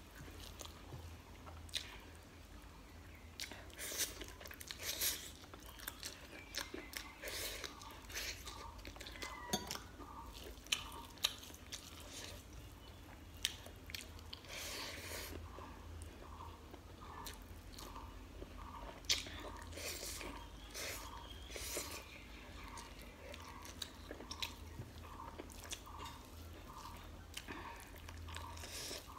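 A person chewing mouthfuls of rice and chicken curry, with many short wet mouth clicks and lip smacks.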